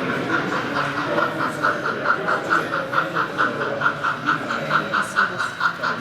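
A model train running on the layout, giving a steady, even pulse of about four beats a second, over a murmur of voices in the hall.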